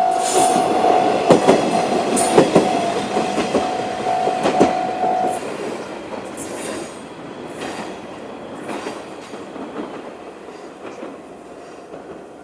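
Isumi 300-series diesel railcar passing over a level crossing, its wheels knocking over rail joints and the sound fading as it moves away. Over it the crossing's electronic warning bell (JR Central-type tone) rings steadily, then stops about five seconds in.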